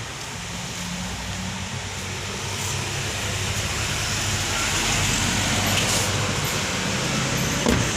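Engine of a 2003 Toyota Kijang Krista 2.4 diesel running steadily, growing louder about halfway through. A short knock near the end.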